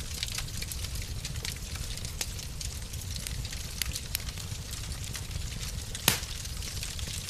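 Fire in a fireplace crackling over a steady low rumble, with many small irregular snaps. One sharp, louder pop comes about six seconds in.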